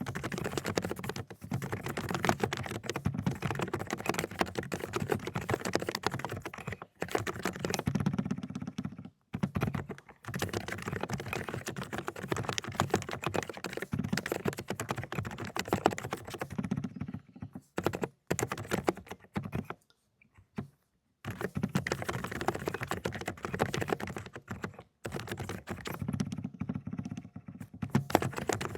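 Fast typing on a Dokgeomi mechanical keyboard with silent 'cotton candy' switches: rapid, dense, muted key strokes, broken by a few short pauses, the longest about two-thirds of the way through.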